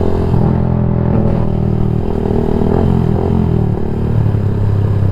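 Yamaha MX King 150 single-cylinder four-stroke engine idling steadily through a Rob1 TGA aftermarket exhaust, with small wavers in pitch.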